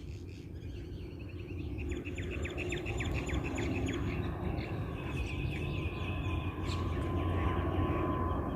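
Small birds chirping in quick runs of falling notes over the low rumble of a de Havilland Canada Dash 8 Q300 turboprop on its takeoff climb, growing slowly louder as it approaches; a steady whine joins in near the end.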